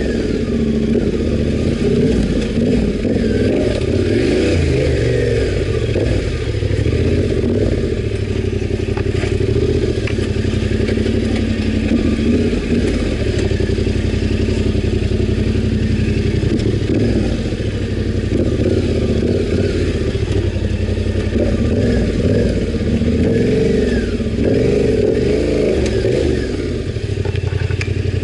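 Yamaha Ténéré 700's parallel-twin engine running as the motorcycle is ridden off-road, its pitch rising and falling with the throttle.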